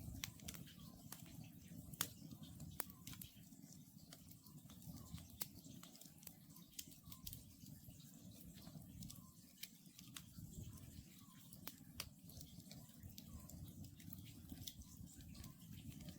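Wood campfire crackling, with sharp pops scattered irregularly over a low steady rumble. Faint short calls of an Oriental scops owl repeat steadily beneath it.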